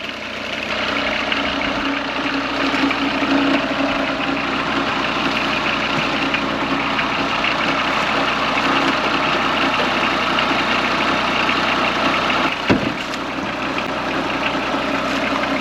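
Truck engine running steadily, with one sharp knock late on.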